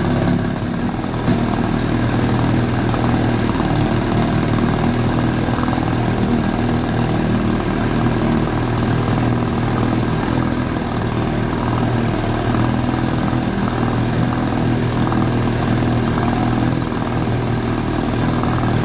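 1952 Mercury KF5 two-stroke outboard motor running steadily at cruising speed, pushing the boat along.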